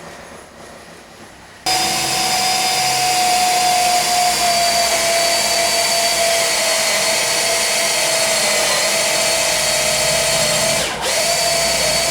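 Power tool switched on about two seconds in and running at a steady high whine, with a brief dip in speed near the end.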